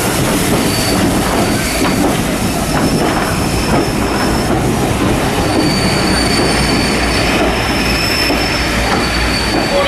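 Passenger train carriages rolling on the rails with a steady rumble, and high wheel squeals coming and going, stronger in the second half, as the train slows toward a stop.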